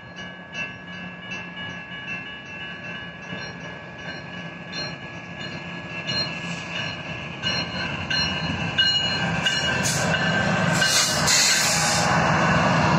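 Railroad crossing bell ringing rapidly, about three strikes a second, while a BNSF freight train's diesel locomotives approach. Engine and rail noise builds and grows loud from about nine seconds in as the lead locomotive reaches the crossing, with a burst of high hiss around eleven seconds in.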